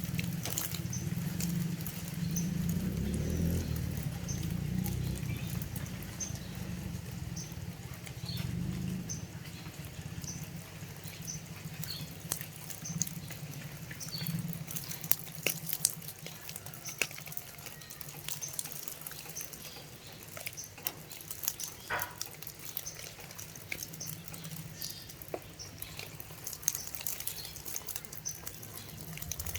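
Water splashing and dripping as young green pigeons are bathed, with many small sharp drips and patters throughout.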